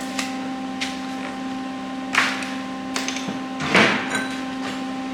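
Steel pieces being handled on a workbench: a few light knocks and two short scrapes, about two and four seconds in, over a steady electrical hum.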